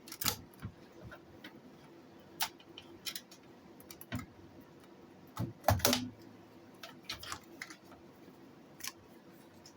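Irregular clicks and knocks of a vintage answering machine and its parts being handled, with a louder cluster of knocks about five to six seconds in.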